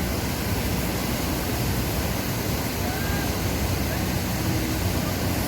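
Steady rush of the Dubai Water Canal waterfall, water pouring down into the canal.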